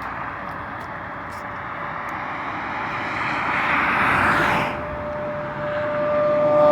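Suzuki GSX-R600 K7 inline-four with a Jardine exhaust approaching at speed. A rushing sound swells to a peak about four seconds in and drops away, then the engine's high, steady note grows louder near the end as the bike closes in.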